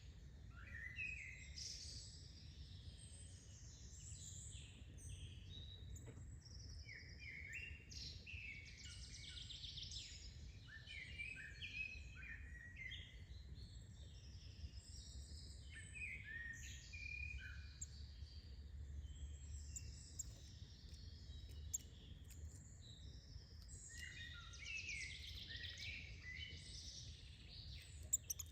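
Small birds chirping and calling in quick, overlapping phrases, with a steady low rumble beneath.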